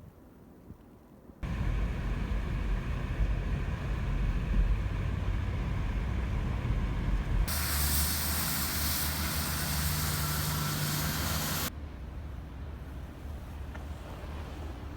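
Vehicle traffic noise in abruptly cut clips: a loud low rumble for about six seconds, then a loud hiss with a steady low hum for about four seconds, then quieter steady noise.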